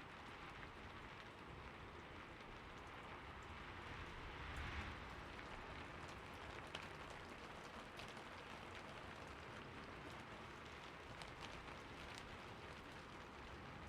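Steady rain falling, soft and even, with a brief swell about five seconds in and a few sharper drips later on.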